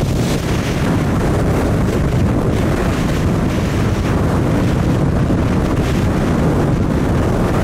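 Strong wind blowing over the microphone, a loud, steady, deep rushing noise.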